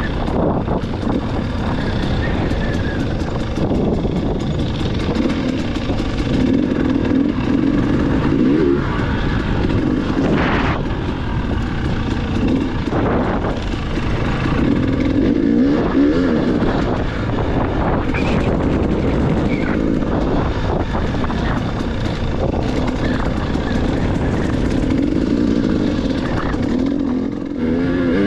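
Dirt bike engine running, its revs rising and falling again and again as it is ridden.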